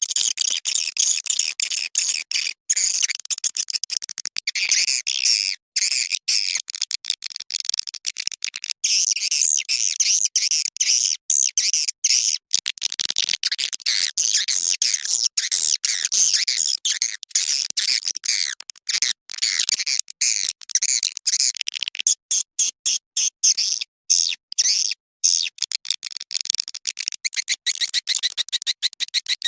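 Swiftlet lure recording (suara panggil): dense, high-pitched twittering of edible-nest swiftlets, chopped into quick bursts with short gaps. In the last several seconds it turns into a fast, even train of chirps. It is played to call swiftlets into a nesting house.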